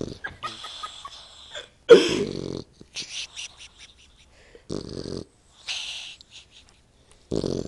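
Sleeping puppy snoring: a low rumbling snore about every two and a half seconds, each followed by a breathy, hissing breath. The first snore is the loudest.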